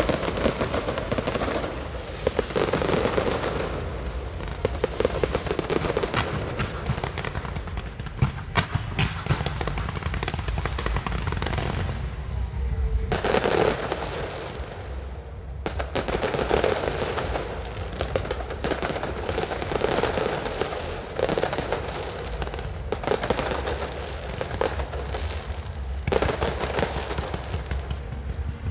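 Aerial fireworks display: a dense, rapid barrage of shell bursts and crackling over a steady low rumble. It thins briefly a little before halfway, then picks up again.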